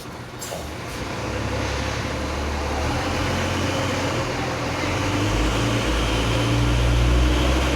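Hino truck's diesel engine running with a low drone that grows steadily louder, its pitch shifting twice, with a brief click about half a second in.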